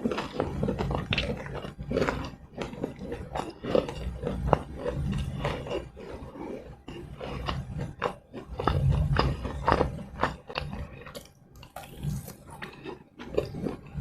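Close-miked eating of fried snacks (keropok lekor and masalodeh vadai with sambal): biting and chewing with many small wet clicks and crunches, and heavier low chewing noise at the start and again about nine seconds in.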